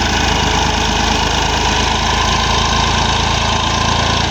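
Massey Ferguson 9500 tractor's diesel engine running steadily and loud, with a fast, even firing beat; its sound drops right at the end.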